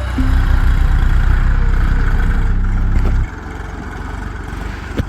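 Tractor diesel engine running under load with a fast, even low pulse, dropping abruptly to a quieter run about three seconds in. A single sharp click near the end.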